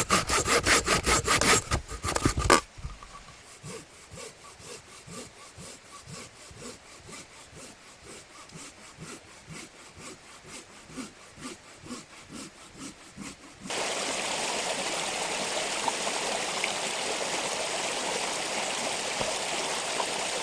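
Hand saw cutting firewood in quick, regular back-and-forth strokes, loud at first and then suddenly quieter. About two-thirds of the way through the sawing stops abruptly, giving way to the steady rush of a flowing stream.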